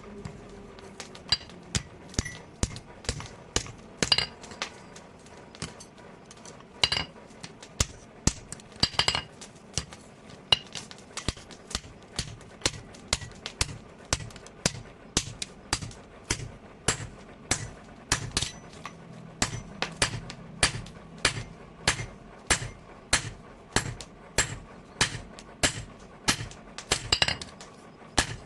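Blacksmith's hand hammer striking hot steel from a tractor bearing on an anvil. The blows are uneven at first, then settle into a steady rhythm of about two a second, each with a short metallic ring.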